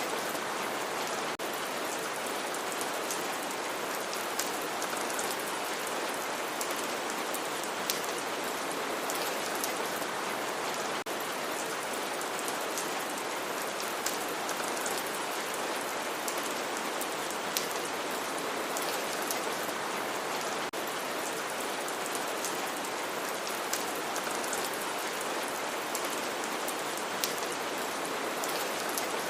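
Steady rain falling, with the sharp taps of single drops landing close by.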